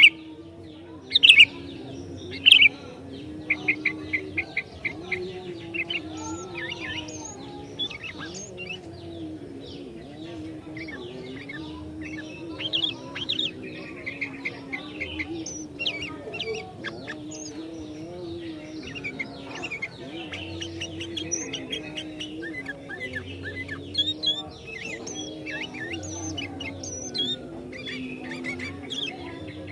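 Sooty-headed bulbul (kutilang) singing: bright, short chirping phrases and quick chirp runs, with a couple of loud sharp calls in the first few seconds. A low, wavering drone sits underneath.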